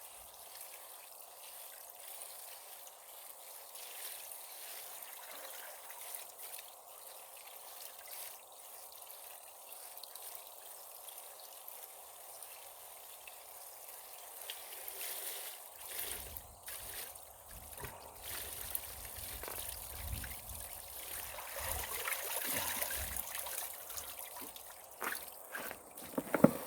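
Running water trickling steadily. From about two thirds of the way in it is joined by handling and rustling noise with low thumps, and a few sharp knocks near the end.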